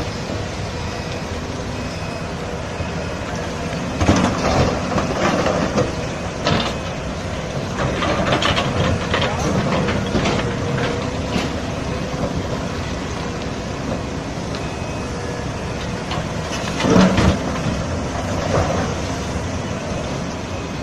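Heavy construction machinery running steadily, with metallic clanks and knocks a few times: about 4 seconds in, at about 6 seconds, in a cluster between about 8 and 11 seconds, and again near 17 seconds.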